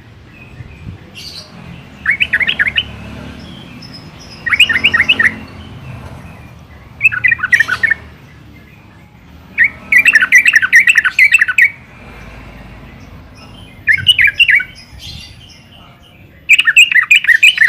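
Yellow-vented bulbul singing: repeated short bursts of rapid bubbly chattering notes every couple of seconds, the longest burst about ten seconds in, with softer calls in between.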